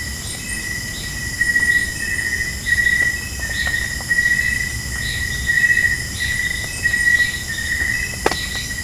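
Night chorus of crickets trilling steadily at a high pitch, swelling and easing about once a second, with fainter chirps above it. A single sharp click sounds about eight seconds in.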